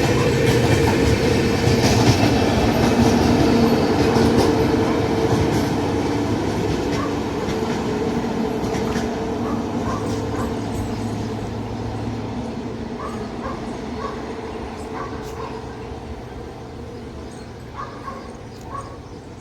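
Indian Railways Jan Shatabdi express with LHB coaches running past, wheels clattering over the rail joints, the rumble steadily fading as it moves away. A few short animal calls, likely a dog barking, come in near the end.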